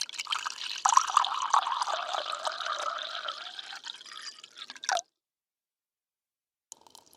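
Liquid pouring into a container, splashing and trickling, with its pitch slowly rising as the container fills; it cuts off abruptly about five seconds in. A similar water sound starts again just before the end.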